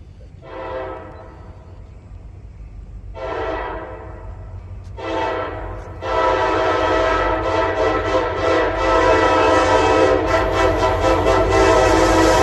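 Freight locomotive's air horn: three blasts of about a second each, then a long held blast from about six seconds in. Wheel clicks on the rail join in near the end as the train draws near and grows louder.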